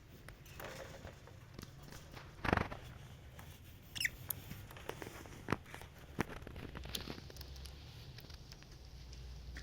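Scattered light taps and clicks of handling, with a short wavering squeak about four seconds in.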